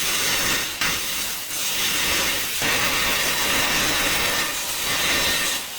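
Food sizzling on a grill over hot coals: a steady hiss that breaks off briefly twice in the first few seconds.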